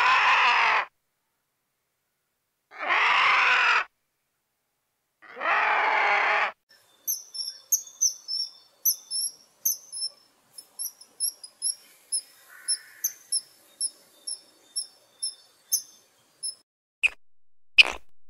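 Three harsh, drawn-out animal calls of about a second each, followed by a long run of quick, high-pitched bird chirps and a few sharp clicks near the end.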